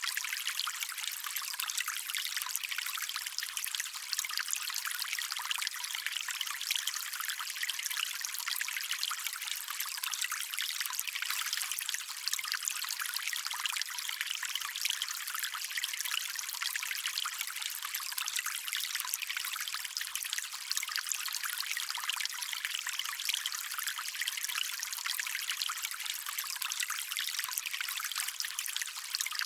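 Shallow stream water running and trickling steadily, a bright, even hiss with almost no low rumble.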